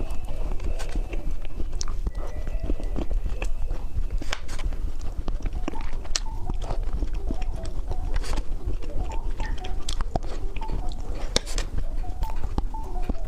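Candy being bitten and chewed close to the microphone: irregular crunching and wet mouth clicks over a low rumble.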